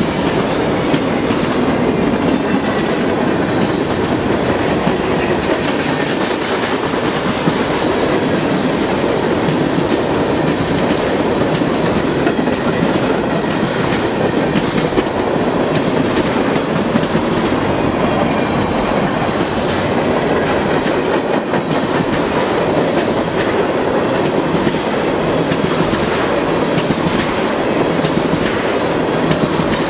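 Freight train cars rolling past close by, loud and steady: the rumble and clatter of steel wheels on the rails as boxcars, covered hoppers and then tank cars go by.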